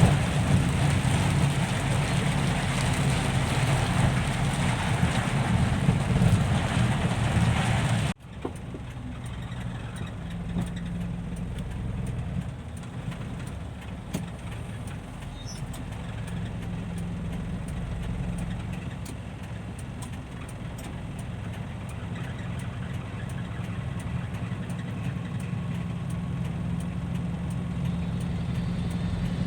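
Dump truck's diesel engine running steadily. For about the first eight seconds a loud hiss lies over the engine and then cuts off suddenly. After that the engine hums more quietly, as at idle.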